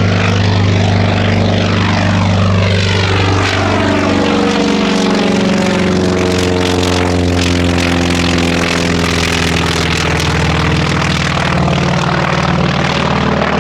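Grumman F4F Wildcat's radial engine and propeller running steadily as the fighter flies by, its sound shifting as the plane passes about four to six seconds in.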